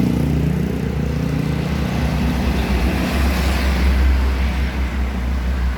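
A large motor vehicle's engine running with a deep, steady rumble.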